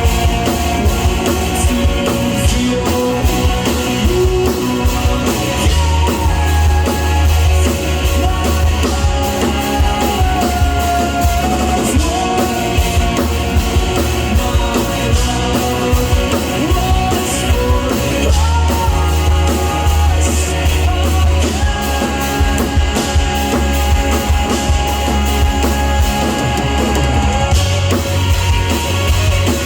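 Live rock band playing loudly: drum kit, heavy sustained bass and guitar lines, with some singing.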